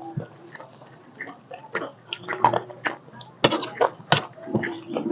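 Close-miked mouth noises of chewing crunchy chatpate, a spicy puffed-rice snack mix, with irregular crackles and smacks. A metal spoon scrapes and clinks against the plate, one sharp clink about three and a half seconds in.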